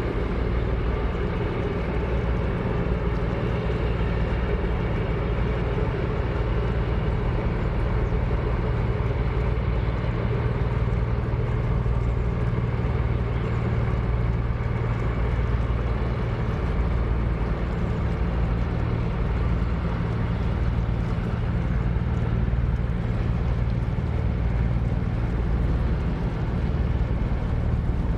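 Steady low drone of a diesel engine on a sand-carrying river boat, running evenly with no change in speed.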